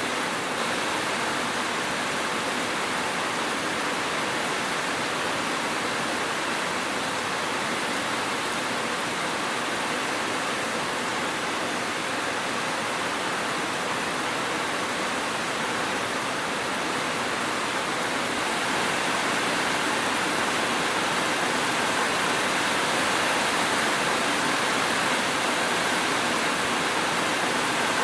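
Steady rain falling, an even, unbroken hiss that grows slightly louder about two-thirds of the way through.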